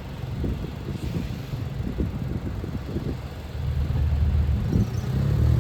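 Low vehicle rumble with irregular thumps, growing louder about three and a half seconds in.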